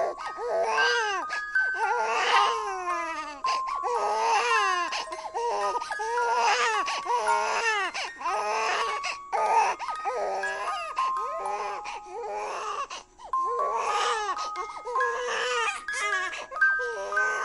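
A baby crying in repeated wails, over a simple melody of clear single notes.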